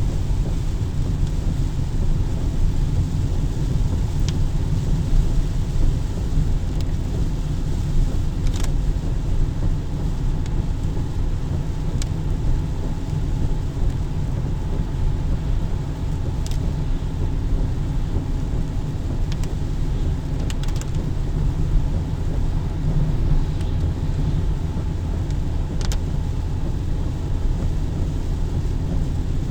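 Steady low rumble of road traffic or a moving car, with a few faint sharp ticks scattered through it.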